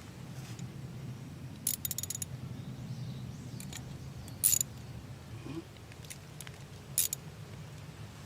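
Metal tools and parts clinking and rattling during hands-on repair work: a quick run of clicks about two seconds in, then single sharp clinks around the middle and near the end, over a low steady hum.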